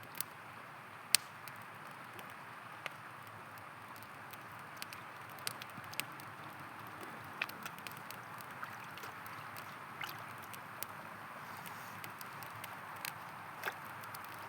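A river flowing steadily, with a campfire crackling over it in scattered sharp pops, the loudest pop about a second in.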